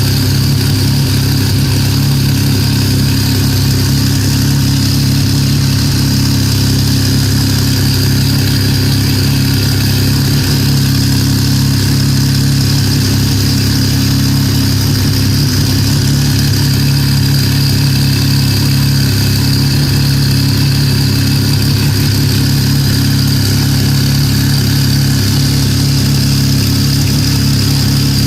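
Pennzoil Nismo GT-R JGTC race car's engine idling steadily and loudly, with no revs.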